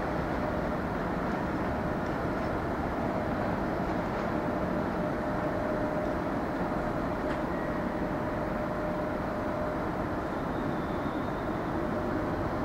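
A train running steadily: an even noise with a faint, steady hum throughout.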